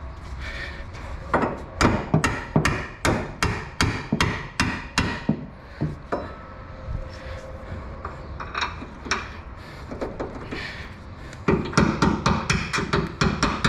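Repeated hammer blows, about two to three a second, in a steady run from about a second in, then a few scattered knocks, then a faster run near the end.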